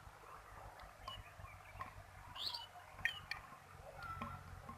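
Faint outdoor background with a few short, high bird chirps scattered through it; no blast.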